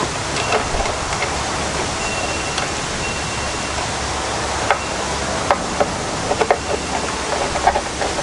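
Scattered small clicks and knocks of ignition coils and tools being handled on a workbench, more of them in the second half, over a steady background hiss and low hum.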